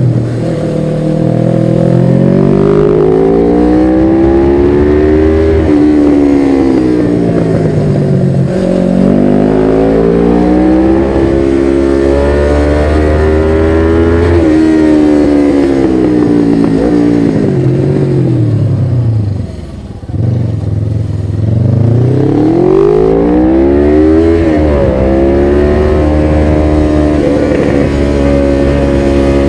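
1993 Suzuki GS500E's parallel-twin engine running through a Takkoni slip-on exhaust with the dB killer fitted, pulling up through the gears: the pitch climbs and drops back at each shift. About two-thirds of the way through the revs fall away as the bike slows, sit low for a moment, then climb quickly through the gears again.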